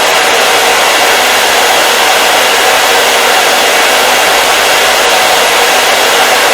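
Hair dryer running continuously: a loud, steady blowing hiss with a faint low hum underneath.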